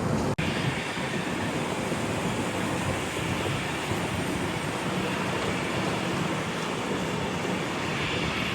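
Steady roar of jet aircraft engines mixed with wind rushing over the microphone, broken by a sudden click and momentary dropout about half a second in where the footage is cut.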